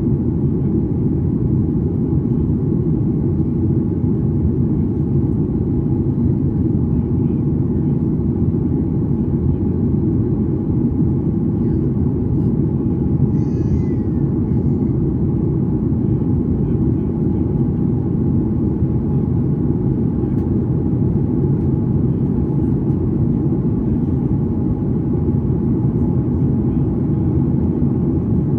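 Steady low cabin rumble of a Boeing 737-800 in flight: its CFM56-7B engines and the airflow over the fuselage, heard from inside the passenger cabin.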